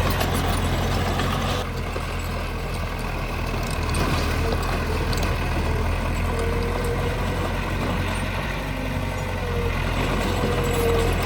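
Heavy diesel earthmoving machinery running steadily, with a low engine hum, a higher steady whine that comes in about halfway through, and occasional knocks.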